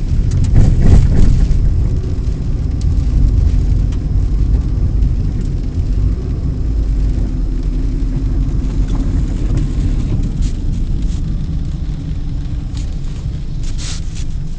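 Low, steady rumble of a car on the move, with a louder swell about a second in and a few short clicks near the end.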